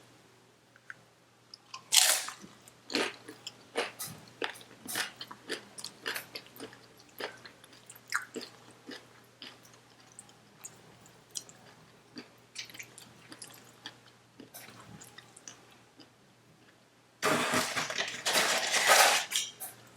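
Close-up chewing of a Chipotle burrito bowl, with wet mouth clicks and smacks coming several times a second. There is a loud bite about two seconds in, and a louder, dense stretch of crunching near the end.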